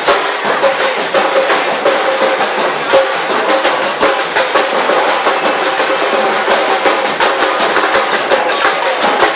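Marching band playing in a street procession, drums beating steadily under held pitched notes.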